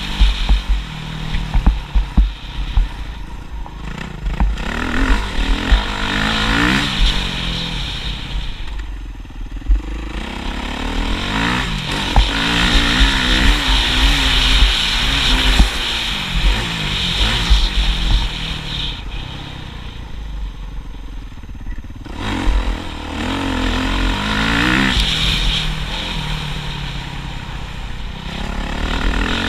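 Motocross motorcycle engine revving and backing off over and over, its pitch climbing and dropping every few seconds as it accelerates and shifts, over a constant rough low rumble.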